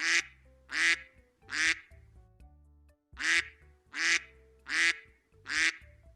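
Duck quacking: seven loud quacks, a run of three, a pause of about a second, then four more.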